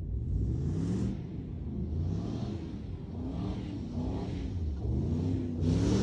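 2009 Jeep Commander's 5.7-litre Hemi V8 revving up and down over and over, about once a second, with a hiss that swells with each rev.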